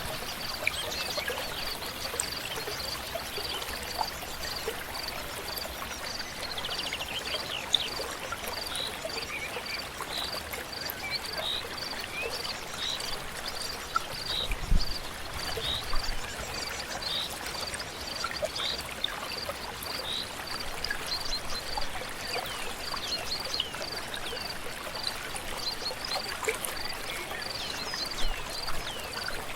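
A river flowing steadily, with birds chirping in short, falling calls and a high, steady note repeated about twice a second throughout. A brief low thump comes about halfway through.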